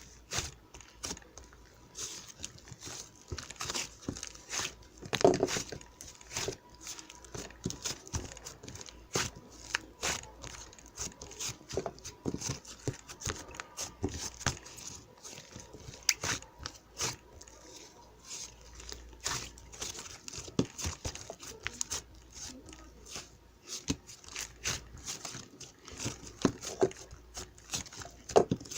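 Close-up crinkling, tearing and crunching: a dense, irregular run of small sharp crackles and rustles.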